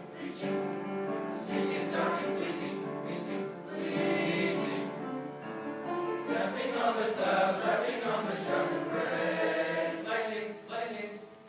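Choir singing, holding long sustained chords, then moving through quicker, shifting notes from about six seconds in.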